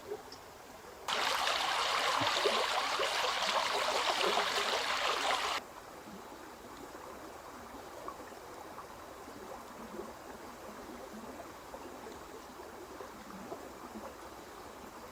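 Running water, a loud rush lasting about four seconds that starts and stops abruptly, then a fainter steady rush of water.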